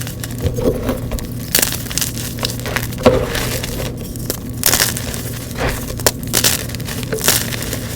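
Blocks of gym chalk being crushed and crumbled, giving a string of irregular dry crunches with softer crumbling in between.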